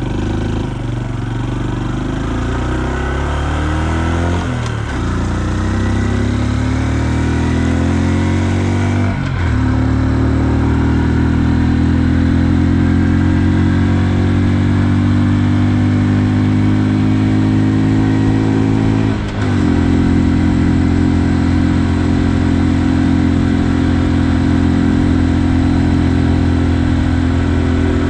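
2020 Honda Super Cub's 125 cc single-cylinder engine accelerating up through the gears. Its pitch climbs and drops back at three upshifts, about five, nine and nineteen seconds in, then holds fairly steady.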